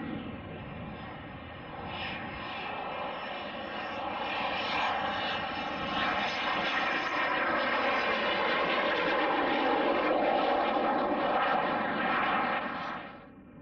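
Fixed-wing aircraft engines running as a plane passes, growing louder to a peak late on, then dropping away sharply near the end.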